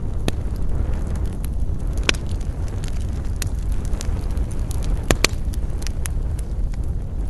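Campfire crackling, with scattered sharp pops (the strongest about two seconds in, and a quick pair about five seconds in) over a steady low rumble.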